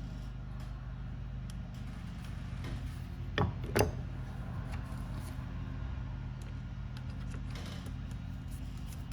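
Small parts being handled on a workbench: light scattered clicks and two sharp knocks, one after the other, about three and a half seconds in, over a steady low electrical hum.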